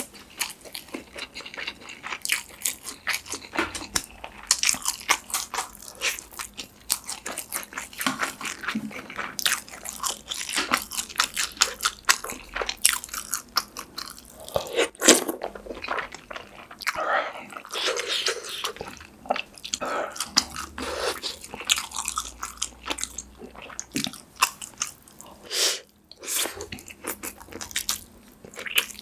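Close-miked chewing and biting of kimchi stew, rice and ramen noodles: a dense, irregular run of short wet mouth clicks and smacks.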